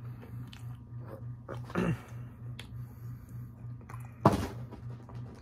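Close-up chewing of a pan dulce cookie, with small crunchy clicks over a steady low pulsing hum. A louder knock comes near two seconds in, and a sharper, louder knock about four seconds in.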